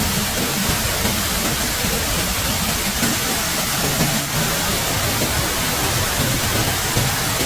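Steady rushing of water, an even hiss without breaks.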